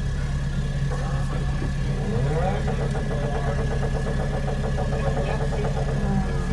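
Car engine idling steadily, a loud, even low hum.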